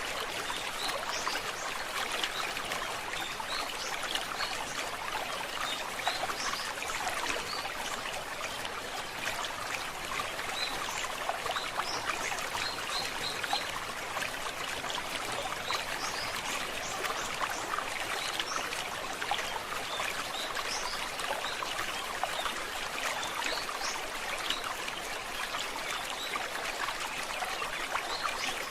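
A stream babbling steadily, with small birds chirping in short high calls on and off throughout.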